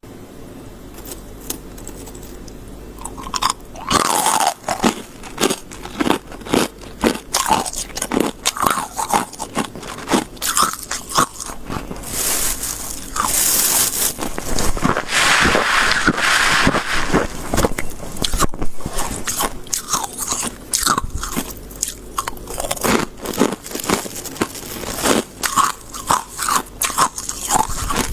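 Close-miked biting and chewing of soft freezer frost: sharp crunches start about three seconds in and come rapidly, with a stretch of denser, continuous crunching in the middle.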